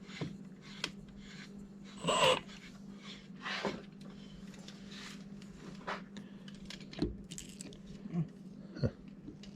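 Scattered clicks, knocks and brief scraping sounds of tools and screw hardware being handled, over a steady low hum.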